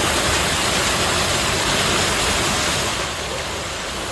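Water running and splashing steadily, a full, even rush, dropping slightly in level about three seconds in.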